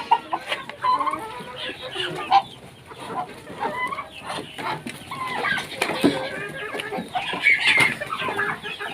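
Backyard chickens clucking as a flock while they feed, with many short overlapping calls and a few sharp knocks among them.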